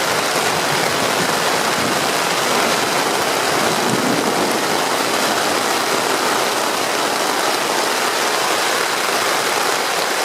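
Heavy rain falling steadily on a tent, heard from inside.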